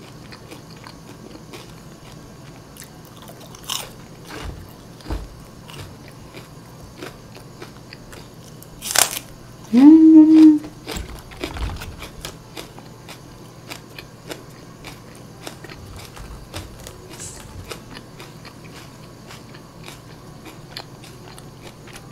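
Close-up crunching bites and chewing of crispy rice-coated fried chicken (Kyochon Salsal chicken). About nine seconds in comes one loud crisp crunch, followed by a brief loud hummed vocal sound.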